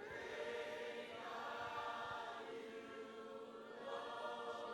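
Congregation singing a cappella, many voices together holding long notes of a worship chorus without instruments, fairly quiet.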